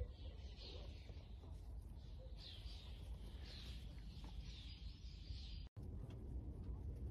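Small birds chirping faintly in short repeated calls over a low outdoor rumble, cut off by a brief dropout near the end.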